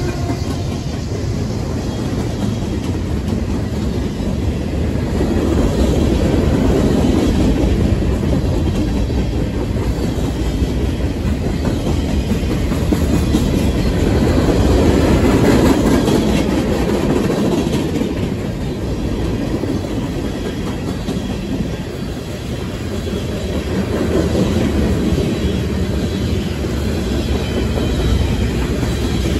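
Norfolk Southern mixed freight train's boxcars and covered hoppers rolling past at close range: a steady rumble of steel wheels on the rails that swells and eases now and then as the cars go by.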